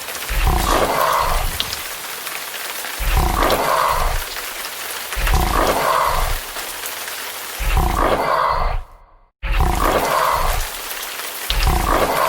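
A roaring monster-like sound repeated six times, about every two seconds, over the steady hiss of rain, with a brief dead cut between the fourth and fifth roars.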